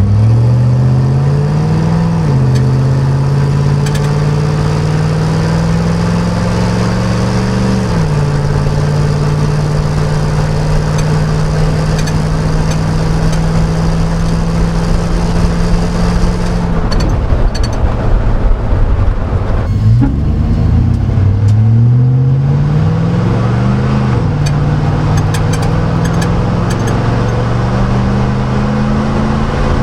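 Chevy 5.3L LM7 V8 exhaust through a Cherry Bomb chambered muffler, heard inside the truck's cab under acceleration. The engine pitch climbs and drops back at upshifts about 2 and 8 seconds in, then holds steady. Around 17 seconds in it eases off, then climbs again through two more upshifts.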